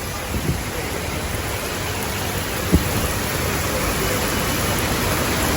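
Heavy rain pouring in strong wind, a steady hiss that grows a little louder, with one short knock about halfway through. The downpour comes from a typhoon.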